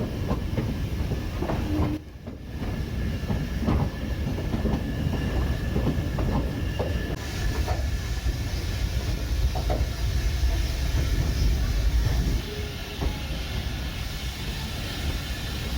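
Heritage train of four-wheel carriages running along the track, a heavy low rumble with irregular clattering knocks from the wheels over the rail joints. A faint steady high squeal runs over it.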